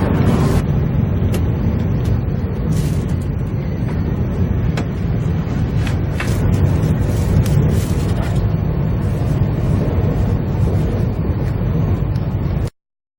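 Running noise of a train heard from inside the carriage: a steady low rumble with a few scattered clicks. It cuts off abruptly near the end.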